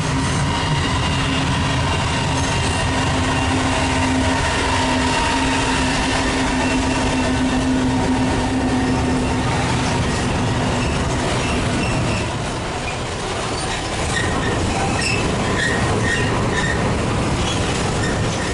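Freight train wagons rolling past with a steady rumble, their wheels squealing in several held tones that fade out about two-thirds of the way through, followed by short high squeaks.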